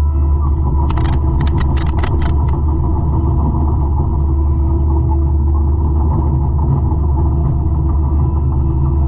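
A 200-horsepower forestry mulcher running steadily with a loud, low drone. A quick run of six or seven sharp cracks comes between about one and two and a half seconds in.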